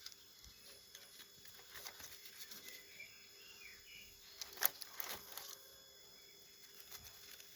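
Dry sticks and firewood being handled and laid for a campfire: a run of light clicks and snaps with one sharper knock near the middle. Birds chirp faintly in the background.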